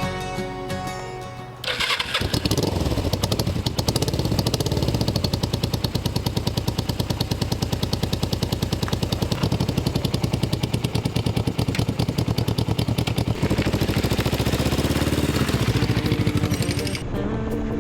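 A dual-carburetted 450 motorcycle engine starts up about two seconds in and then runs at idle with an even, pulsing beat, cutting across music that fades in again near the end. It sounds a bit rough, "like it's been smoking a few cigarettes", yet it is still running like a champ.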